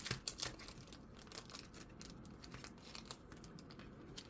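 Thin plastic card sleeve crinkling as a trading card is slid into it and handled: a quick run of sharp crackles in the first second, then fainter scattered ticks.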